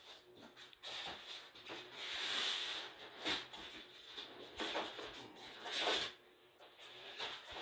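TV box packaging being handled and unpacked: a series of short rubbing and scraping rustles, with a longer scrape about two seconds in.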